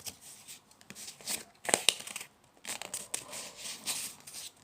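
A sheet of A4 paper being folded and creased by hand: irregular crinkling and rustling with a few sharper crackles, the loudest a little under two seconds in.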